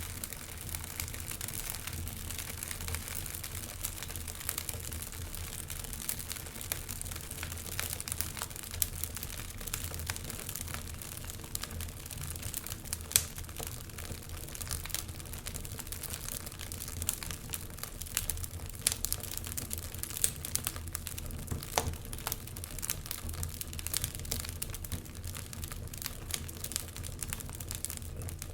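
Wood fire burning in a fireplace: steady hiss with frequent irregular crackles and small pops from the burning logs, one louder pop about halfway through.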